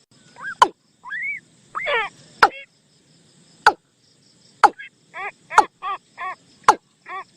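Recorded bird call used as a decoy lure for the bird known in Thai as นกตูม: short arched call notes, a few scattered at first, then a quick run of about three a second in the second half, broken by sharp loud clicks about once a second.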